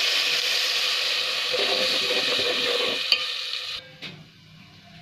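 Browned onions and freshly added garam masala powder sizzling in hot oil in a steel pot while being stirred with a slotted spoon. There is one sharp click about three seconds in, and the sizzle cuts off suddenly nearly four seconds in.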